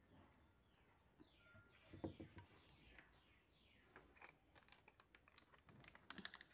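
Near silence: faint, high, falling bird chirps repeated in the background, with a few soft clicks.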